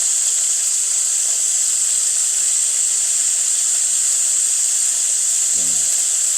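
Steady, high-pitched chorus of cicadas.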